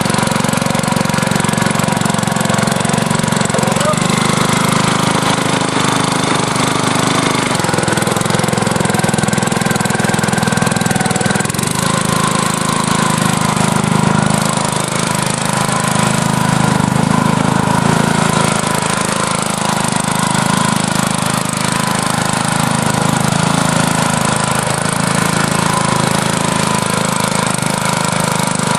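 Engine of a Kubota tracked mini dump truck running steadily.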